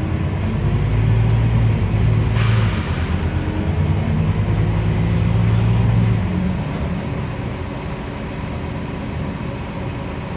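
Scania CN270UB city bus's diesel engine running under load as the bus drives, with a short hiss of compressed air about two seconds in. About six and a half seconds in, the engine note drops and settles lower and quieter.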